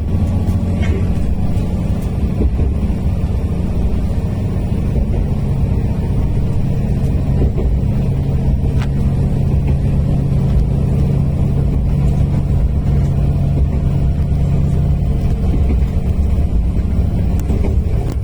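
Diesel railcar running steadily between stations: a continuous low engine drone with rumble from the wheels on the track.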